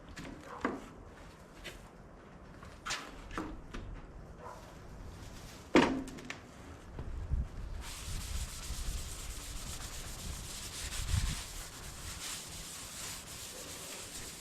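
Scattered knocks and clanks of handled metal parts, with one sharp clank near the middle. Then a steady hiss starts abruptly and carries on, typical of prep work on the parts.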